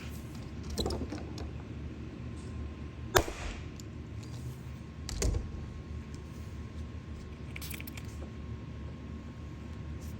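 Scattered clicks and knocks of dent-repair tools being handled during glue pulling, with a sharp click about three seconds in and a duller knock about two seconds later, over a faint steady high hum.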